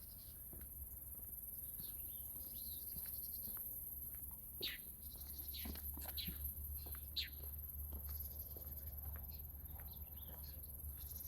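Birds calling in the open, a few sharp calls dropping quickly in pitch through the middle, over a steady high-pitched insect drone and a low rumble.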